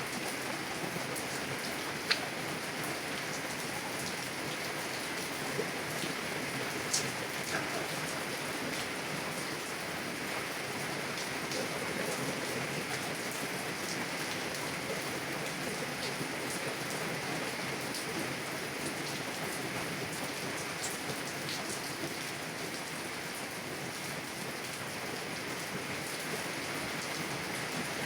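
Heavy rain drumming on a car's window and body in a steady hiss, with a few louder single drops ticking on the glass, the sharpest about two seconds in.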